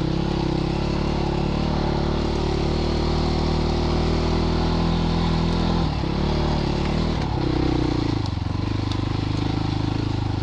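Christini all-wheel-drive 250cc dirt bike engine chugging at low revs in first gear, pulling up a hill. The throttle eases off briefly twice, about six and seven seconds in, then the engine settles back into a steady, slightly lower chug.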